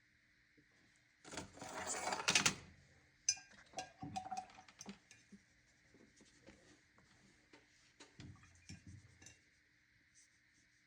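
Paintbrush working in a watercolor paint set and water cup. There is a brief scrubbing swish about a second in, then scattered light clicks and taps against the palette and cup as the paints are wetted.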